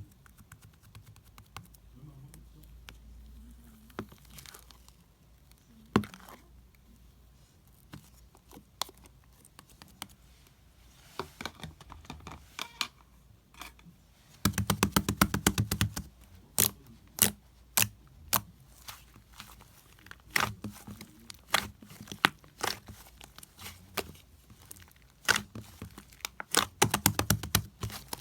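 Purple slime being squeezed and pressed by hand, giving crackly popping clicks. They come sparsely at first, then in dense runs from about halfway through and again near the end.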